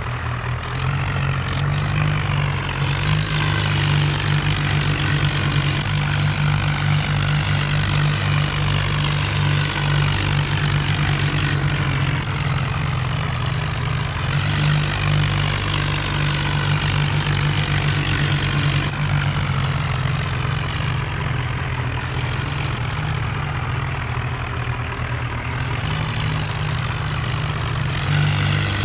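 Diesel tractor engine running hard with a steady low drone, as in a tractor towing or pulling contest, with a broad hiss over it that drops away briefly a couple of times.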